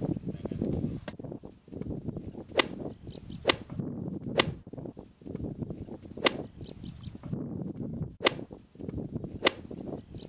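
Rustling and footfalls through dry rice stubble, cut by about six sharp cracks at uneven gaps of one to two seconds.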